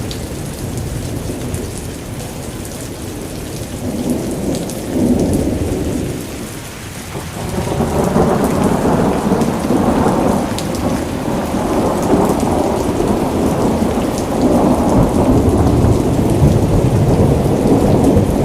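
Steady rain falling, with deep rolling thunder rumbling under it; the rumble swells about a third of the way in and grows louder and stays strong through the second half.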